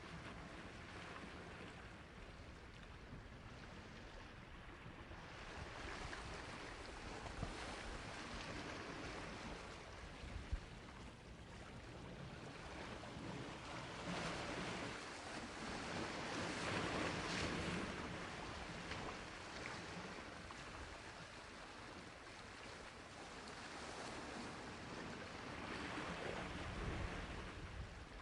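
Sea waves washing onto a shore: a soft, steady rush of surf that swells and falls back slowly, with the biggest swell about halfway through and another near the end.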